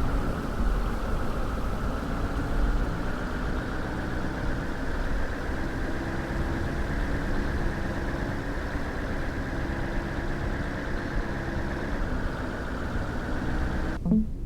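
Car engine running steadily, a continuous low hum with road-like noise; the sound briefly cuts out near the end.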